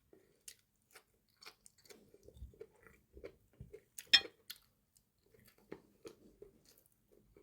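A person chewing food close to the microphone: irregular wet mouth sounds and small crisp clicks, with one sharper click about four seconds in.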